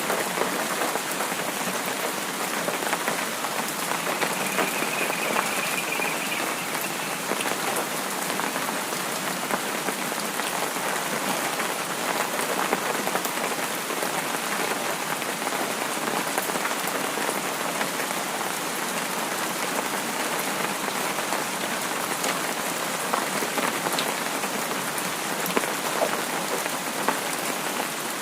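Steady rain falling on a surface: an even hiss of rain with scattered individual drop ticks.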